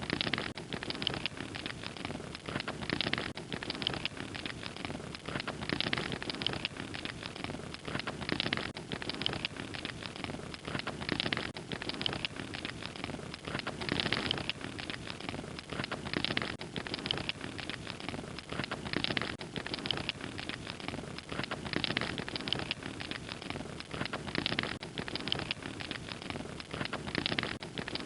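Log fire crackling with a dense run of small pops, swelling into louder flurries of crackles every two to three seconds.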